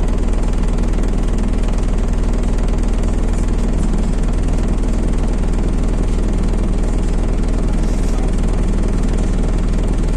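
Steady engine drone and low rumble of a MAZ-206 city bus, heard from inside the passenger cabin.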